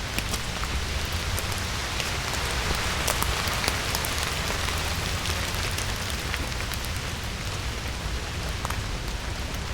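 Steady rain falling on wet autumn forest foliage: an even hiss with many separate drops ticking close by, over a low steady rumble.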